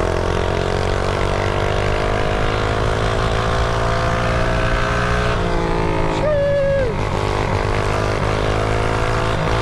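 Mini bike's small engine running steadily while it is ridden, its pitch drifting a little with the throttle. About six seconds in, a short high tone sounds over it for roughly half a second and falls away at the end.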